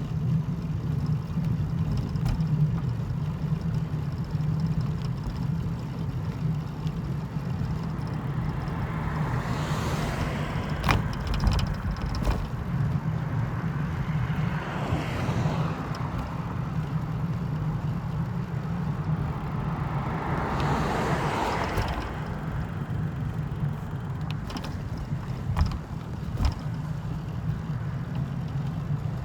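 A vehicle's steady low engine hum. Three swells of rushing noise come and go about ten, fifteen and twenty-one seconds in, and there are a few scattered clicks.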